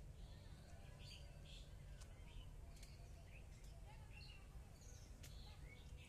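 Several small birds chirping faintly, with short chirps and quick whistled notes scattered throughout, over a low steady rumble.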